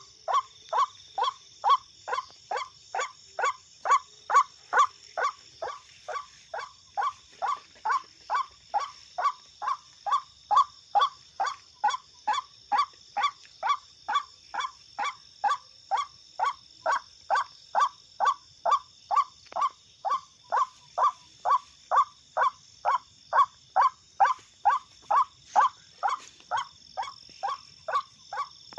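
White-breasted waterhen (ruak-ruak) call played back from an MP3 player as a lure: a short, harsh note repeated steadily about twice a second, with a steady high-pitched buzz behind it.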